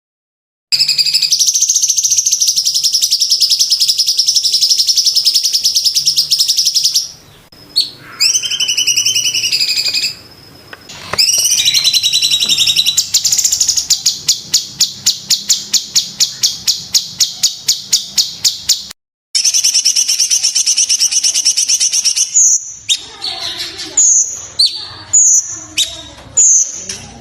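Cucak cungkok songbird singing: long, rapid, high-pitched trills broken by short pauses and calls. Near the end it switches to a string of short, sharp, falling notes about one every 0.7 seconds.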